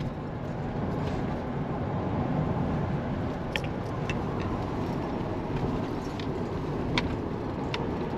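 Van driving on a rough, potholed highway: steady engine and road rumble, with a few sharp rattles or knocks from the bumps.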